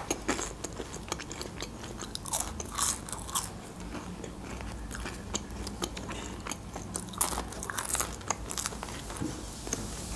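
Close-miked chewing and crunching of crispy french fries: irregular crisp crunches and mouth sounds, thicker twice, about two seconds in and again near the end.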